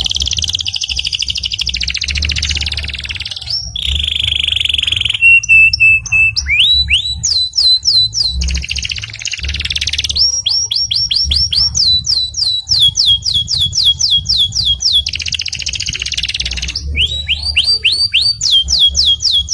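Canary singing a long continuous song: rapid rolling trills alternate with a short steady whistle and runs of quick repeated falling notes, the phrase changing every second or two.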